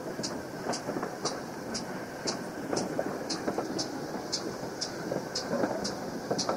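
Train running: a steady rumble with a light, sharp tick about twice a second, evenly spaced.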